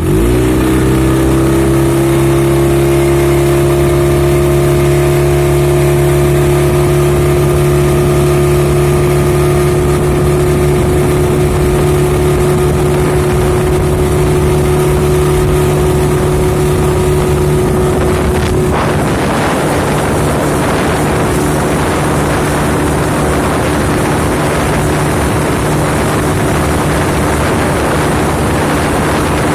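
An engine starts and within a second rises to a steady, even run. About two-thirds of the way through, its pitch drops slightly and a rougher hiss joins in, and it keeps running that way.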